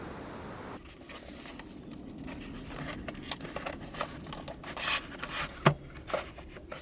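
Close handling noises in a small enclosed space: a run of short clicks, rustles and scrapes, with one sharper knock near the end.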